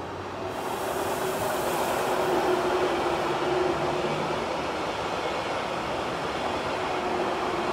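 Electric multiple-unit express train passing through the station at speed: a steady rush of wheels on rail with a steady hum, growing louder over the first two seconds as it draws level.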